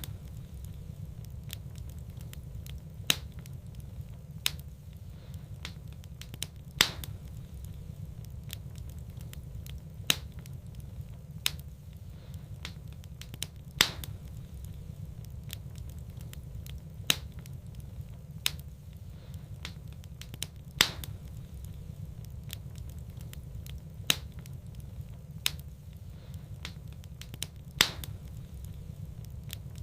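Wood fire in a fireplace crackling: sharp single pops at irregular intervals of a second or two, over a steady low rumble.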